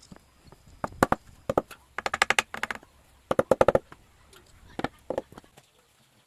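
Sharp knocks on wood, some single and some in quick runs of several strikes, each with a short ringing tone, as parts of a wooden tank are knocked together.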